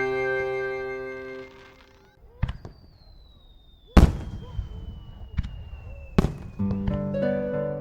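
Fireworks shells bursting with sharp bangs, the loudest about four seconds in, others about two and a half and six seconds in. They fall between sustained organ-like music, which fades out at the start, and harp-like music coming back in near the end. A faint high tone slowly falls in pitch through the middle.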